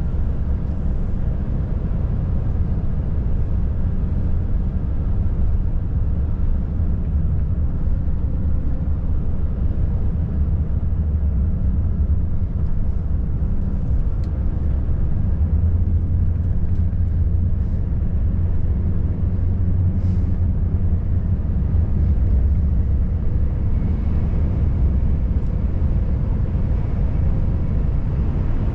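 Volvo FH540 truck driving at a steady pace: a continuous low drone of its 13-litre six-cylinder diesel and the road noise, with no change in engine speed.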